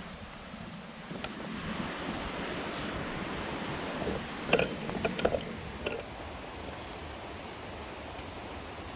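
Steady rush of a rain-swollen jungle stream, with a short cluster of sharp crackles and knocks about halfway through.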